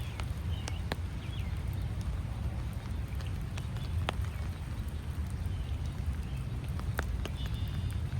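Rain dripping: scattered sharp, irregular drop ticks over a steady low rumble, with a few faint bird chirps, most noticeably near the end.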